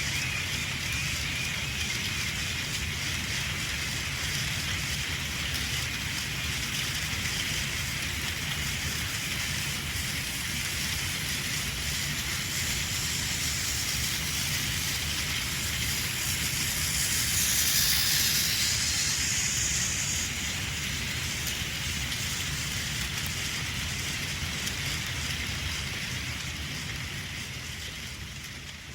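Battery-powered Plarail toy train running on plastic track, a steady whirring rattle. It grows louder as the train comes close about eighteen seconds in, then fades away near the end.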